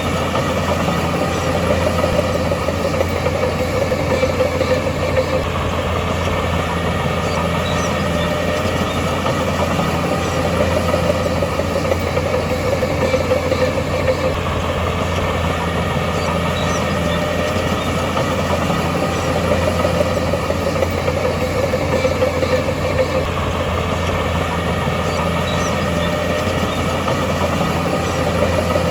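Heavy diesel engine of earthmoving machinery running steadily, with a deep low hum that holds the same level throughout.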